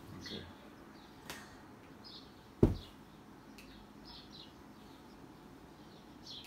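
Faint bird chirps repeating in the background, with one sharp thump about two and a half seconds in and a softer click before it.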